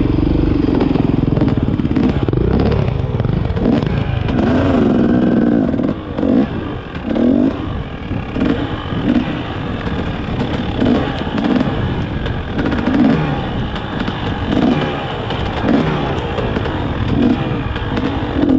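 Dirt bike engine revving up and down as it is ridden over rough ground: longer pulls of the throttle at first, then short blips about once a second.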